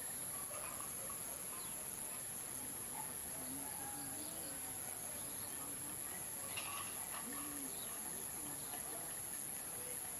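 Kecial kuning songbird chirping in short, faint, scattered notes over a steady high-pitched insect drone.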